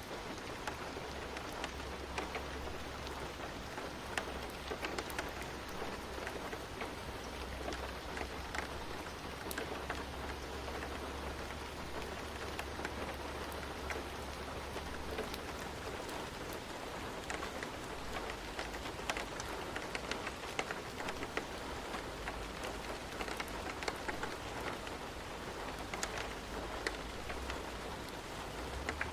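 Steady rain falling on a surface, with scattered individual drops ticking and a low rumble underneath.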